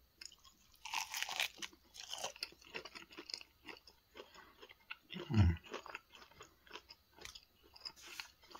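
Close-up chewing of crispy deep-fried shrimp: crunching and smacking, densest in the first few seconds, with a short low mouth sound about halfway through.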